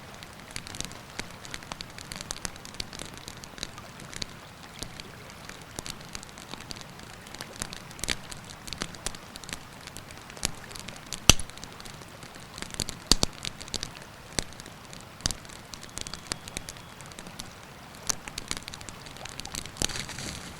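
Wood campfire crackling, with irregular sharp pops (the loudest about eleven seconds in), over the steady rush of a river.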